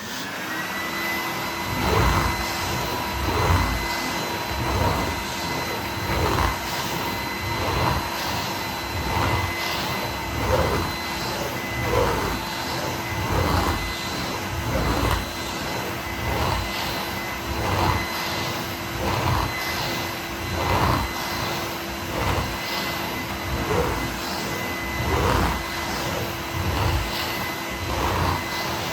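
Vintage Numatic Henry vacuum cleaner motor switched on, starting abruptly and then running steadily with a high whine, its loudness swelling and dipping about every second and a half. The motor runs decently; the bearings show nothing much wrong.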